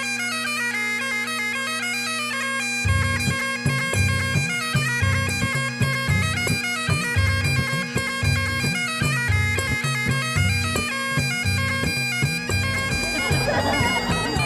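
Bagpipes playing a tune over a steady drone, with a low repeating beat joining about three seconds in.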